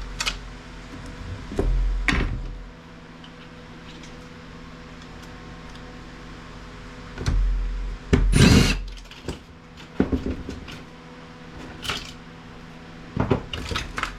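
Small screws being taken out of scrap IT equipment: scattered metal clicks and handling, with a brief louder clatter about eight seconds in.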